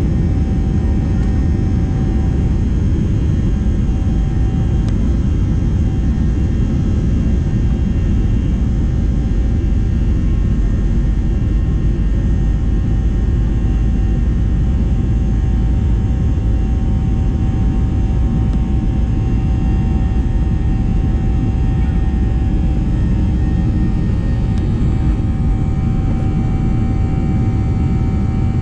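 Boeing 737 jet engines and airflow heard from inside the passenger cabin: a loud, steady low rushing noise with faint steady whining tones above it.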